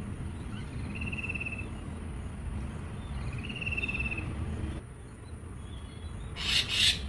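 Birds calling in a garden: two short buzzy trilled calls, about a second and three and a half seconds in, over a steady high whine and low background rumble. Near the end comes a short, loud, harsh noisy burst.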